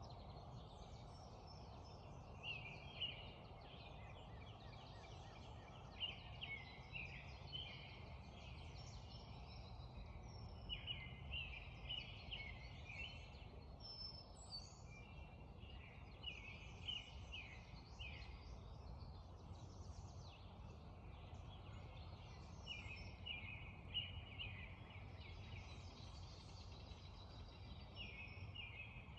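Songbirds singing in a spring dawn chorus, repeated short bright chirping phrases every second or two, over a steady low background rush of the creek.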